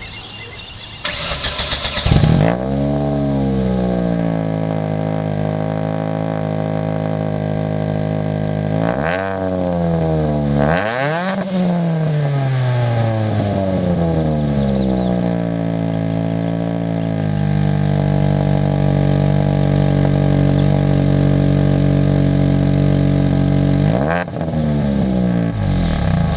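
Ford SVT Focus 2.0-litre four-cylinder cold-started through a Roush exhaust with no resonator. The starter cranks for about a second, then the engine catches with a flare and settles to a steady idle. Two quick throttle blips come around the middle, and the pitch dips and rises again near the end.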